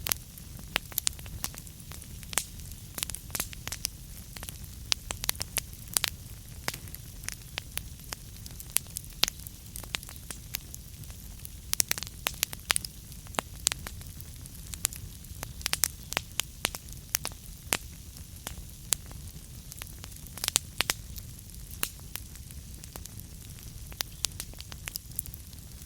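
Burning wood crackling: irregular sharp pops and snaps, several a second, over a low steady rumble of the fire.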